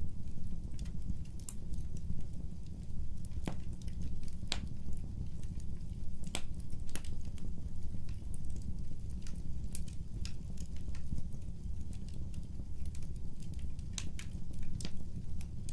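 Wood fire burning: a steady low rumble with irregular sharp crackles and pops from the burning wood, a handful of them louder than the rest.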